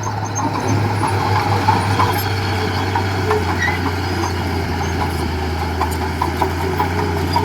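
Diesel engine of heavy construction machinery running steadily, with light irregular clicking over the hum.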